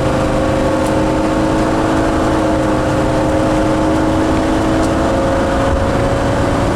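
Motorhome engine and road noise heard from inside the cab. The engine note rises slowly and steadily as it accelerates up a highway on-ramp.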